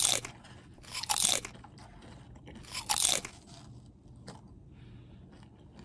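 A person crunching and chewing popcorn eaten like cereal in milk. There are three loud crunches, at the start, about a second in and about three seconds in, with fainter chewing between them.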